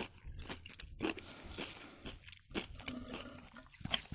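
Close-miked chewing of soft Ossetian cheese pie: wet mouth clicks and smacks, with a soft hiss about a second in.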